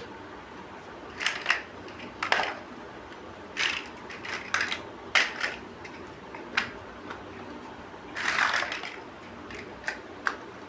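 Plastic building bricks being handled and snapped together: a series of separate sharp clicks, roughly one every second, with a longer rattle of pieces about eight seconds in.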